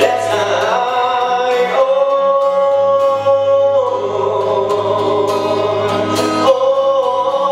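Live music: a singer holding long, sustained notes over a guitar accompaniment with a steady pulsing beat.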